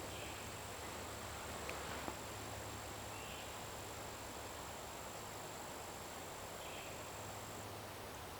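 Quiet outdoor ambience: a steady noise haze with a thin, high-pitched insect-like whine that stops shortly before the end, a few faint short chirps, and two small clicks about two seconds in.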